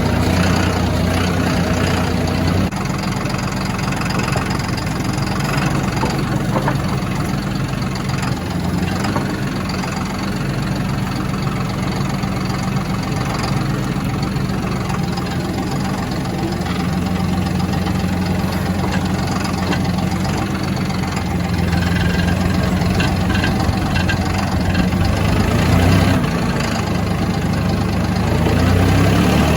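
Tractor engine running at a steady speed, its note shifting a few seconds in and rising briefly twice near the end as it is throttled up.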